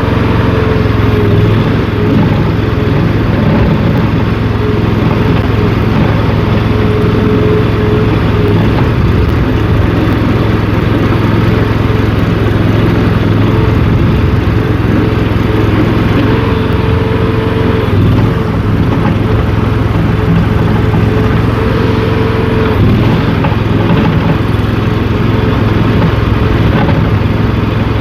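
Small gasoline engine of a mini skid steer running steadily under load as the machine drives on its tracks, with a steady whine over the engine note. The note shifts briefly a couple of times in the second half.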